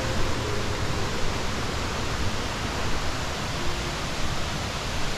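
Waterfall cascading over limestone tiers: a steady, full rush of falling water with no change in level.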